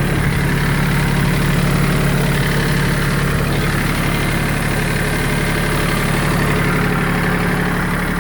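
Kubota tractor's engine idling steadily.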